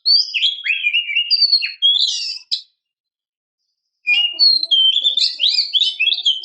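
Female oriental magpie-robin singing varied, gliding whistles and warbles in two quick bursts with a short pause between them. It is the call of a female in breeding condition, calling for males.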